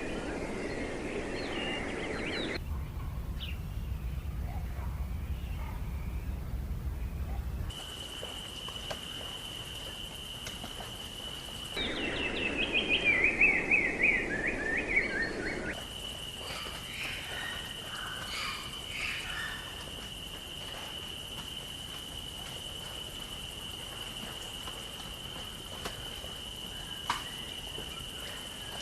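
Outdoor recordings of wild birds calling, cut together, with the background changing abruptly several times. About halfway through, one bird gives a loud series of quick notes that fall in pitch over about three seconds. A steady high-pitched tone runs under much of the rest.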